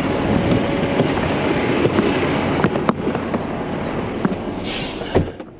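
Heavy tow truck's diesel engine running, with scattered metallic clicks and knocks. A short hiss comes near the end, then a heavy thump, after which the sound drops off sharply.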